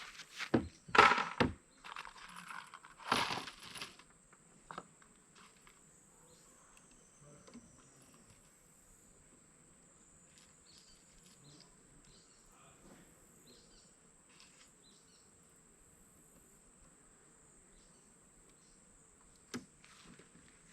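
A short cluster of metallic clinks and rattles in the first few seconds, loudest about a second in, from the revolver and its cartridges being handled. Then a low, steady background with scattered faint ticks, and one more short clink near the end.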